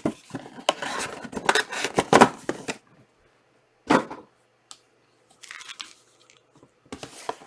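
A foil trading-card pack being torn open and crinkled by hand for the first few seconds, then a single knock a little before the middle and lighter rustling of the wrapper and cards.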